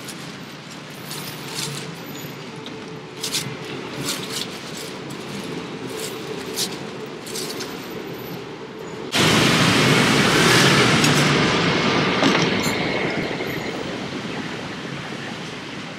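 Metal spatula clicking and tapping on a roti griddle. About nine seconds in, a loud rushing rumble sets in suddenly and slowly fades: an elevated BTS Skytrain passing.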